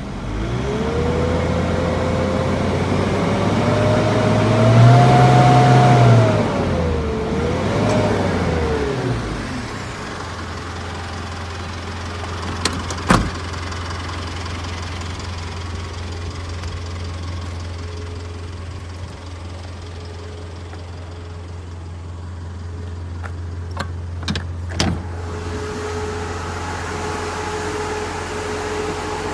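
Isuzu Elf truck engine revved up and down for the first several seconds, then settling to a steady idle. A sharp click sounds about thirteen seconds in, and a few more come near twenty-five seconds.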